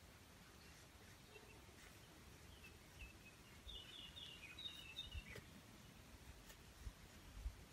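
Faint bird chirps, a short run of quick high notes about three to five seconds in, over quiet woodland background, with a few soft low knocks near the end.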